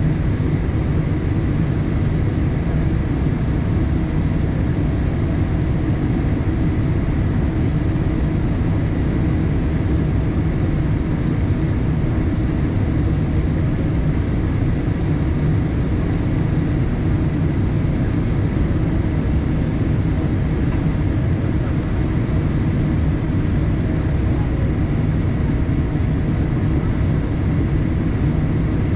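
Steady cabin noise inside a Boeing 787-8 airliner: an even low rumble with airflow hiss, unchanging throughout.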